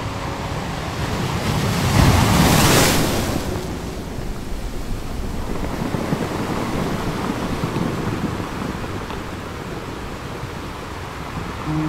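Rushing noise of ocean surf, swelling loudest about two to three seconds in, then settling to a steady wash.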